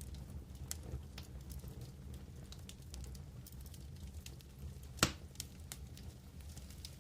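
Wood campfire crackling: scattered sharp snaps over a low steady rumble, with one loud pop about five seconds in.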